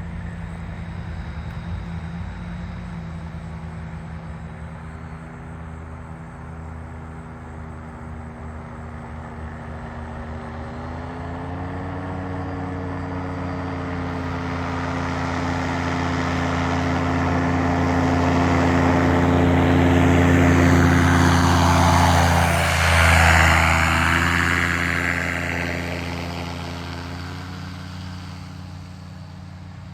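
Small propeller airplane flying past low: its engine drone grows louder, is loudest and drops in pitch about 23 seconds in as it passes, then fades away.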